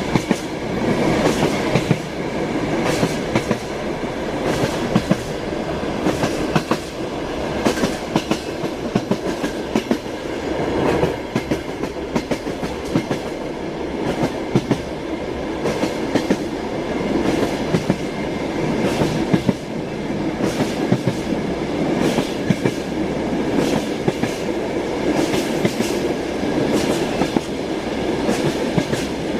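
Passenger train wheels clattering over rail joints: sharp knocks every second or two, often in quick pairs or small groups, over the steady rumble of the moving train.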